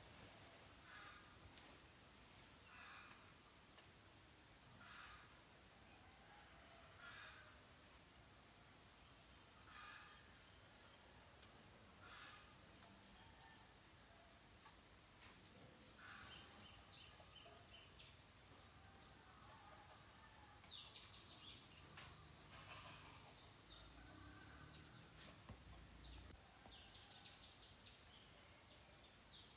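Insects chirping in high-pitched trains of rapid pulses, each train lasting a few seconds with short pauses between, over a steady high whine in the first half. A few faint bird calls come in the second half.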